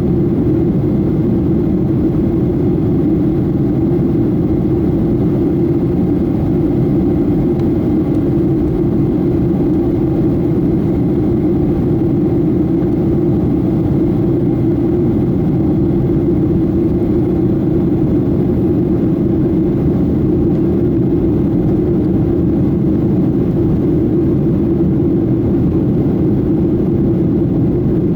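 Steady cabin noise of a Boeing 737-800 in flight: its CFM56-7B jet engines and the airflow make a constant low rumble that holds at an even level.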